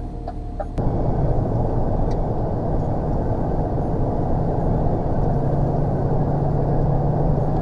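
Lorry cab noise while driving: steady engine and road rumble, starting after a sharp click about a second in, with a low steady hum coming in about halfway through.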